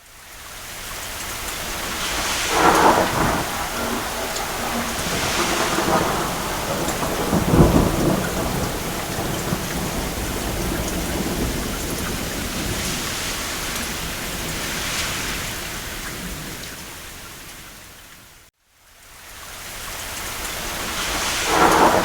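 Steady rain with thunder rumbling through it, swelling several times, the heaviest low roll about eight seconds in. Near the end the whole sound fades out to silence for a moment and then fades back in.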